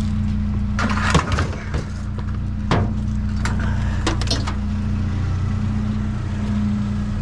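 A vehicle engine idling steadily, with several knocks and clatters of objects being handled or loaded: a loud clunk about a second in, another near three seconds, and a few more shortly after.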